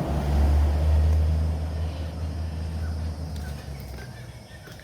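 Low rumble of a vehicle engine, loudest about a second in, then fading away over the next few seconds.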